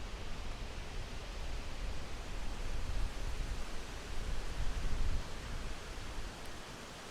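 Winter wind blowing in gusts: a steady hiss with a low, buffeting rumble that swells and eases, dropping away shortly before the end to leave only the hiss.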